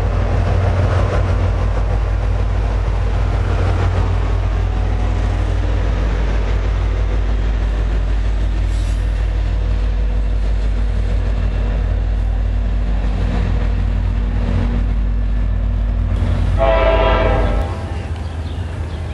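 Diesel locomotive running with a steady low rumble, with a train horn blast lasting about a second near the end; the deepest part of the rumble drops away just after the horn.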